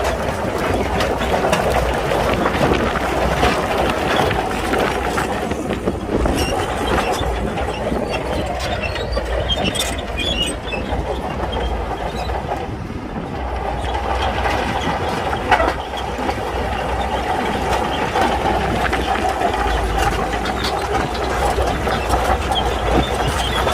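Shantui crawler bulldozer working, its diesel engine running steadily under the clatter and clicks of its steel tracks.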